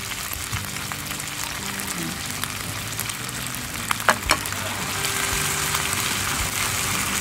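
Chicken feet, garlic and a splash of vinegar sizzling in hot oil in a non-stick pan on a portable gas stove, stirred with a plastic spoon. Two sharp clicks about four seconds in, and the sizzle grows a little louder after that.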